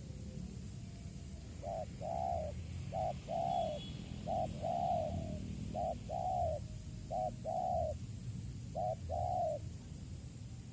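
Spotted dove cooing: five repeated phrases, each a short note followed by a longer note, at an even pace over about eight seconds.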